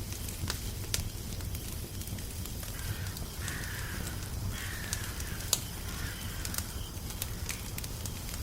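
Wood fire crackling with frequent sharp pops over a low rumble. A crow caws several times, harsh and rasping, from a few seconds in until near the end.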